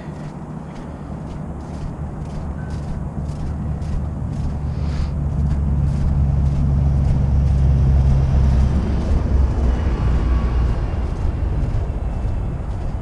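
A heavy vehicle passing close by: a deep engine rumble that grows louder, peaks about eight seconds in, and then fades as it moves away.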